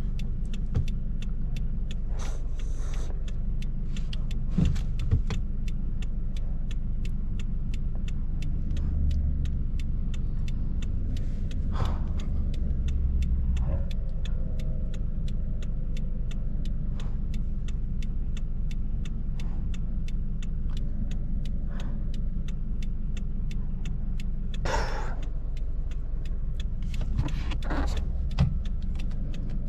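Subaru BRZ's flat-four engine and road noise heard from inside the cabin while being driven: a steady low rumble with frequent light clicks and rattles.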